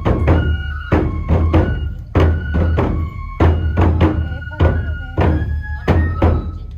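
Japanese folk music for a nenbutsu kenbai sword dance: a drum struck in a steady beat, about two to three strokes a second, under a high melody of held, changing notes.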